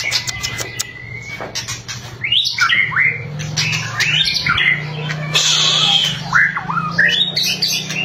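White-rumped shama (murai batu) singing: sharp crackling clicks in the first second, then a rapid run of varied whistled notes sliding up and down mixed with harsh chattering, over a steady low hum.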